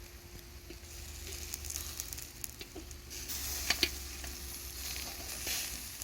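Shashlik sizzling over hot coals, a steady hiss with scattered crackles and two sharper pops just before the middle.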